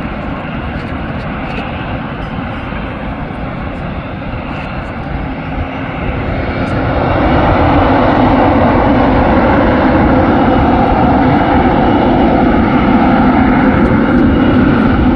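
Jet airliner engines: a steady noise that swells about six seconds in and then holds loud.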